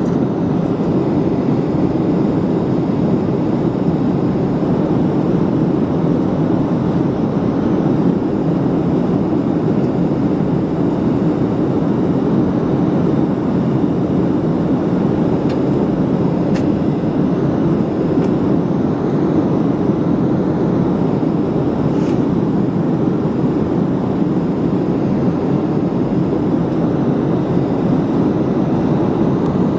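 Steady roar of a Boeing 737 airliner's jet engines and rushing air, heard from inside the passenger cabin.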